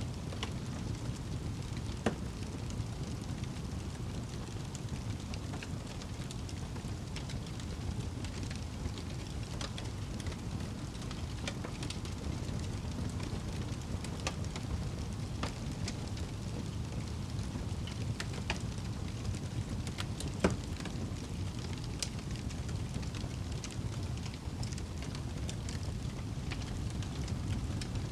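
Wood fire crackling in a fireplace: scattered sharp pops and snaps over a steady low rumble, with two louder pops, one about two seconds in and one around twenty seconds in.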